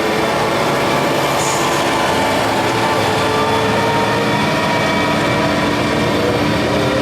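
A motor vehicle engine running steadily at constant speed, a loud even hum with several steady pitched tones over rumbling noise.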